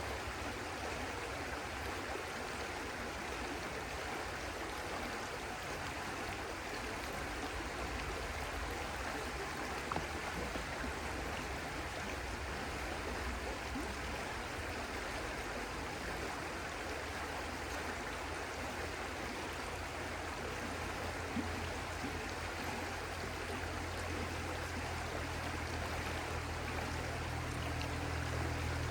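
A stream flowing with a steady rush of water. A low hum comes in and grows louder over the last several seconds.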